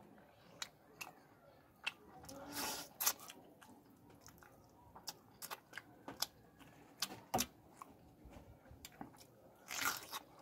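Close-up mouth sounds of a person eating fish curry by hand: chewing with many short, sharp clicks, and two louder spells, one about a quarter of the way in and one near the end as another piece is bitten.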